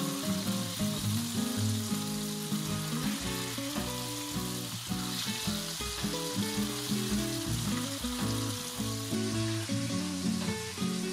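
Chicken breasts frying in butter and oil in a pan, sizzling steadily, with background music playing under it.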